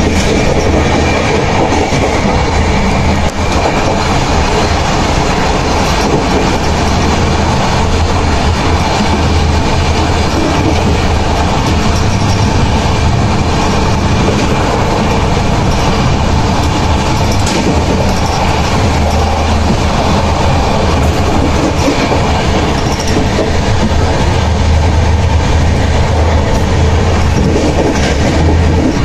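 Rajdhani Express passenger train running along the track: a loud, steady rumble of wheels on rail with a low hum and occasional clicks of the wheels over rail joints.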